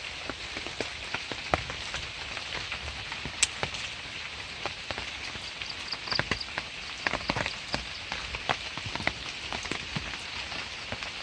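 Steady rain falling on a pond and its bank: an even hiss with many scattered sharp drop taps.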